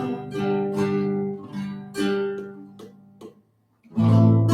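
Acoustic guitar strummed: several chords ring and fade, then after a moment of near silence a loud new strum comes in near the end.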